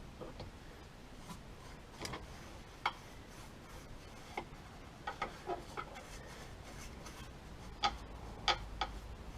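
Scattered light, sharp clicks and taps, about a dozen at irregular spacing, with a small cluster around five seconds in and the loudest near the end, over a faint low hum.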